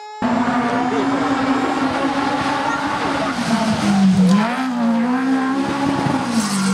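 Rally car engine running hard at high revs, its pitch dipping briefly about four seconds in and falling again near the end.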